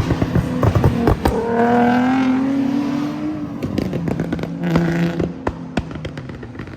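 A car engine revving, its pitch rising for about two seconds from around a second and a half in, with many sharp pops before it and again about four to five seconds in; the sound fades toward the end.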